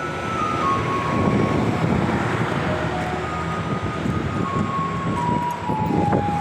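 Taiwanese garbage truck playing its electronic jingle through a loudspeaker: a simple melody of single notes stepping down in pitch, heard twice, over the low rumble of the truck and street traffic.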